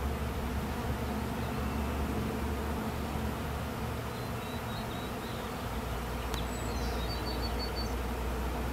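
A swarm of honey bees buzzing: a dense, steady hum of many wings.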